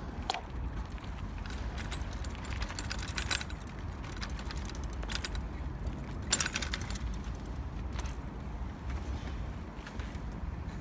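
Bicycle in motion: a steady low rumble of riding, with scattered rattles and clicks from the bike's parts and a sharper clack about six seconds in.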